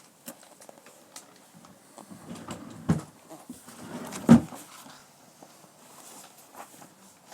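Paper programme being handled and its pages turned: faint rustles and light clicks, with two dull knocks about three and four seconds in.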